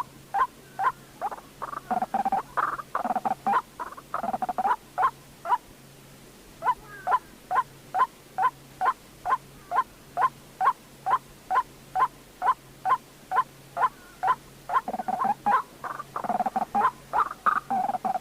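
White-breasted waterhen calling: a long series of short, sharp notes at about two a second, broken twice by stretches of faster, rougher chattering, with a brief pause in between.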